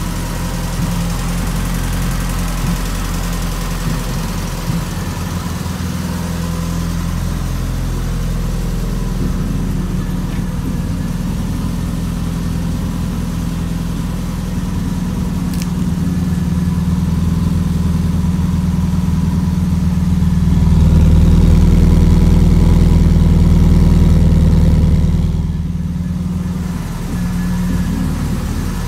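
Modified 2004 Subaru Forester Turbo's turbocharged flat-four engine, with a catless Invidia exhaust, idling steadily just after a cold start. The sound grows louder for a few seconds past the middle, then drops back.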